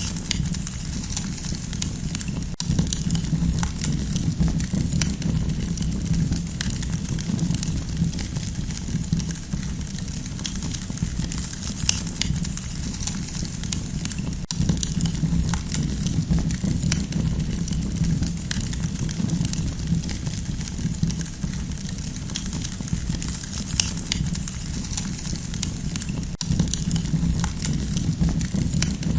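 Campfire burning, with dense, irregular wood crackling over a steady low rumble.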